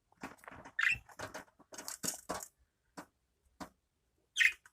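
Budgerigars moving about in a small wire cage: a string of short clicks and rattles, with a brief higher-pitched chirp about a second in and another near the end.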